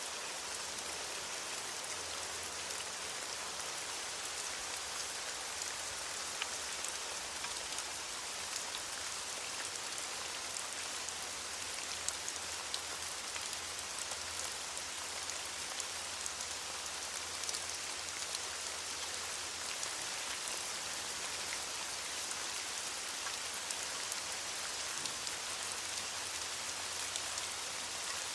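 Steady rain falling on leaves, a dense even hiss peppered with many small drop ticks.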